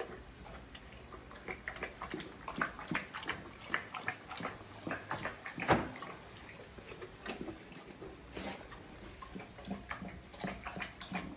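Newborn puppies squeaking, mixed with a run of irregular wet licking and smacking sounds, with one louder sound a little over halfway through.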